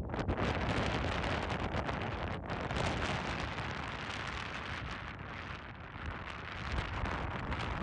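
Wind buffeting the microphone: a steady, loud rushing noise that dips a little in the middle and swells again near the end.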